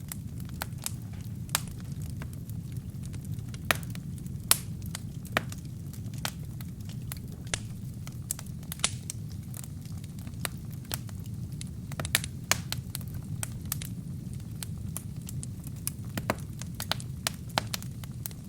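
Wood fire burning in a fireplace: a steady low rumble of the flames with frequent sharp, irregular crackles and pops from the burning wood, a few of them louder than the rest.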